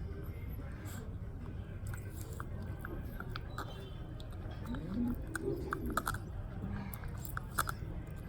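Puppies digging at hard ground: irregular small scratching and crunching clicks of paws and claws in gritty earth.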